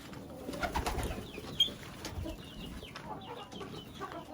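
Chickens clucking, with short high chirps and one sharp peep about a second and a half in.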